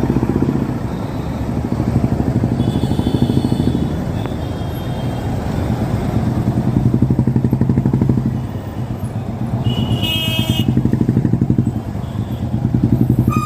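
Old Royal Enfield Bullet's single-cylinder engine running with a steady, rapid beat that swells louder and eases off several times. A brief high tone sounds twice, about three and ten seconds in.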